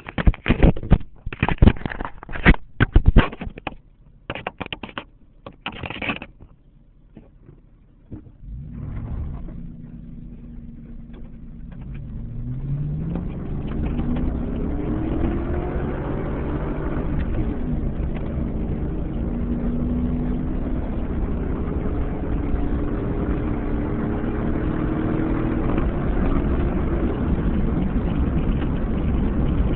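Several loud knocks and clatter in the first few seconds. After that, the 2007 Chevy Avalanche's V8 pulls away and speeds up, its pitch rising through the gears, then runs steadily with a steady rush of tyre and gravel noise from the dirt road.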